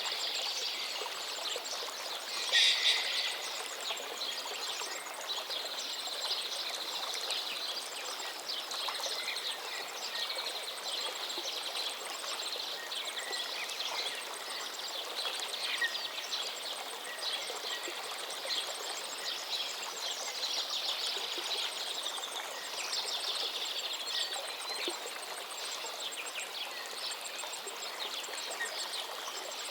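River water flowing steadily with small splashes and trickles, and birds chirping over it; a brief louder burst comes about three seconds in.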